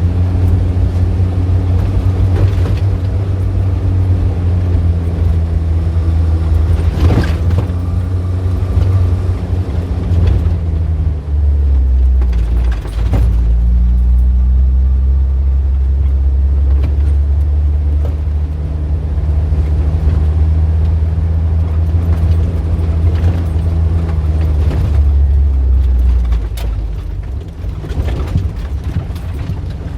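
Street traffic: a nearby vehicle engine running with a steady low hum that drops in pitch about eleven seconds in and eases off near the end, with other traffic noise around it.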